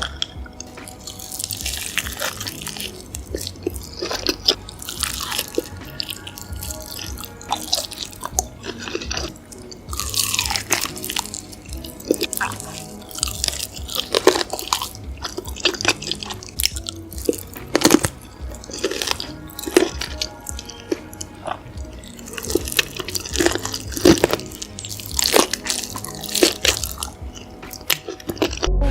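Background music with a steady beat, over mukbang eating sounds: repeated crunching and chewing bites heard as sharp clicks throughout.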